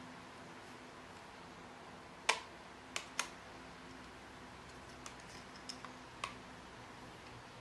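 A few sharp clicks and taps of small hard objects: the loudest a little over two seconds in, two close together about a second later, and several fainter ones after, over a low steady hum.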